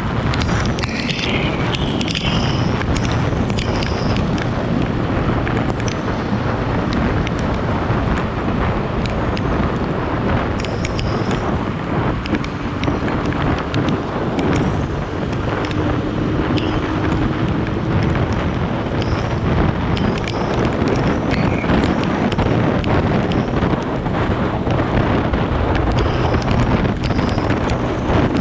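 Steady wind buffeting the microphone of a moving rider, with road and traffic noise underneath.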